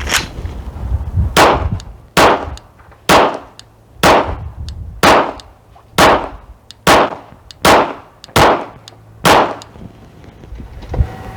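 Eleven shots from a 9mm Glock 17 pistol, fired at a steady pace of about one a second, with wind rumbling on the microphone.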